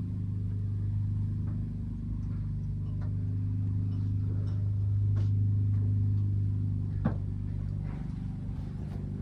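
Steady low mechanical hum, a little louder in the middle, with a single sharp click about seven seconds in.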